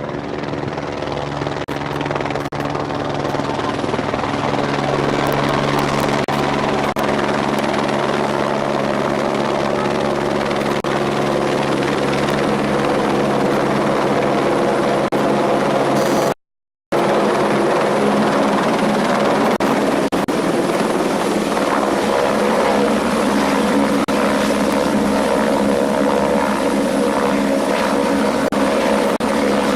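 Helicopter running steadily: the even turbine-and-rotor drone of the machine, with the sound cutting out completely for about half a second midway.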